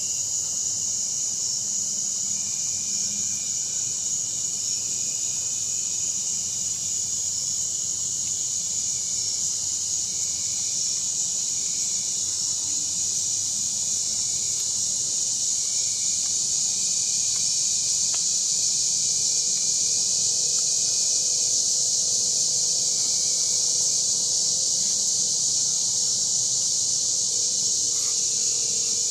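Steady chorus of insects such as crickets, a continuous high-pitched shrill. A faint low hum joins about two-thirds of the way through, and everything cuts off suddenly at the end.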